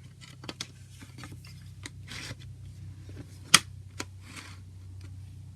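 CD packaging being handled: scattered light plastic clicks and short rustles, with one sharp loud click about three and a half seconds in, over a steady low hum.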